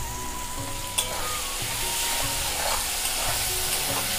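Spiced onion-tomato masala sizzling in oil in a metal kadai while it is fried down and stirred with a metal spatula, with a sharp clink of the spatula against the pan about a second in.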